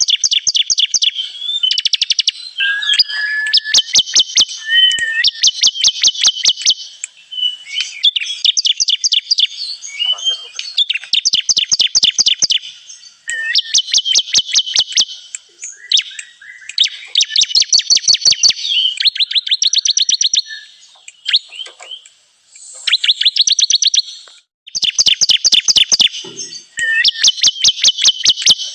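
Bar-winged prinia (ciblek kristal) song: phrase after phrase of rapid, high, dry chipping notes, about a dozen a second, each phrase lasting around a second with short pauses between.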